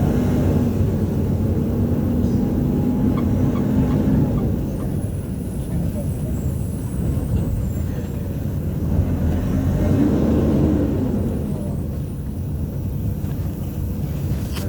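City bus engine and road rumble heard from inside the passenger cabin while riding. The engine note rises and falls about ten seconds in.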